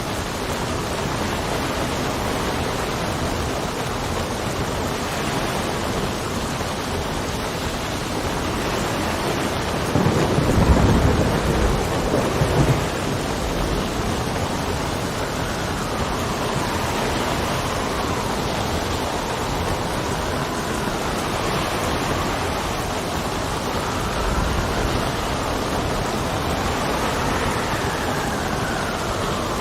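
Steady rain with a low rumble of thunder about ten seconds in, and wind whistling with a pitch that rises and falls through the second half.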